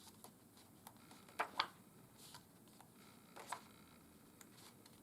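Soft paper rustles as pages of a paperback art booklet are turned by hand: two quick brushes about one and a half seconds in and another about three and a half seconds in.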